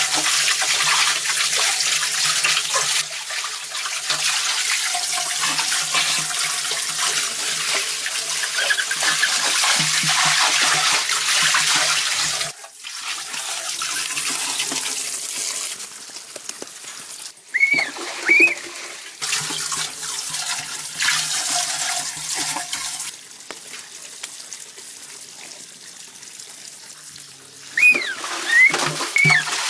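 Water running steadily with a rushing, splashing sound, loudest in the first twelve seconds and then quieter, with several abrupt changes in level. A few short high chirps come about two-thirds of the way through and again near the end.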